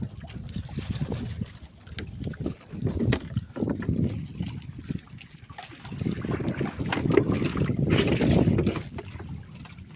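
Water splashing and sloshing around a small fishing boat, with wind buffeting the microphone. It swells twice, once around the middle and again for longer later on.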